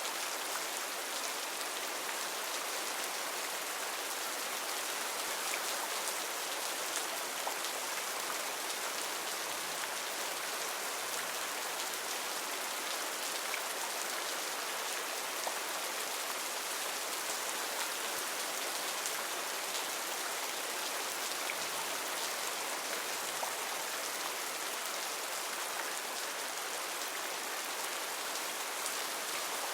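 Heavy rain falling steadily on foliage, a dense even hiss with fine patters of individual drops.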